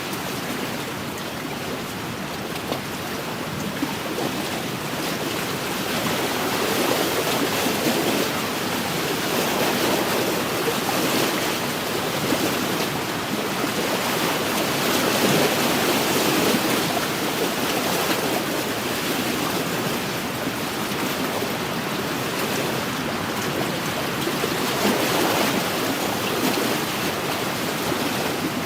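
Wind-driven waves on an inland lake lapping against the shore, a continuous wash that swells and eases every few seconds.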